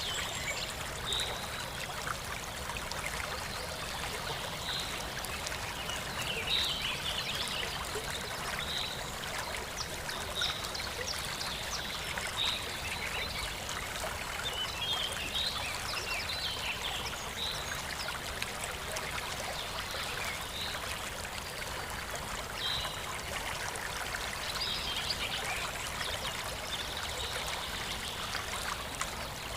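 Water trickling and splashing steadily, with short high plinks of droplets or bubbles every second or two.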